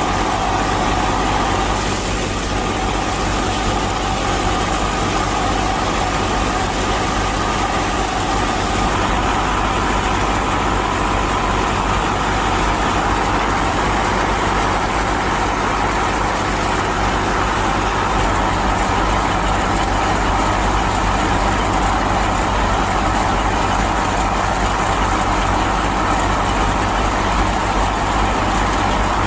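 A small motor running steadily with a held whine, unchanging throughout: the drive of a homemade mini tractor.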